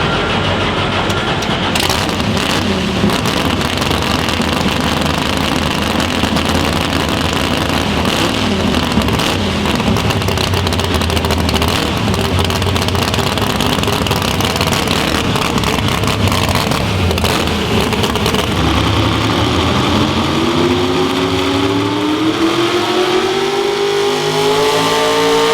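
Competition pulling vehicle's engine running hard and loud. About three quarters of the way in, an engine's pitch starts climbing steadily as it revs up.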